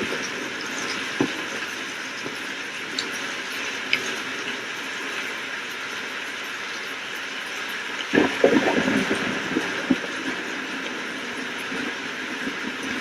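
Steady rain falling hard, an even hiss, with a few sharp drop clicks and a short burst of loud crackles about eight seconds in.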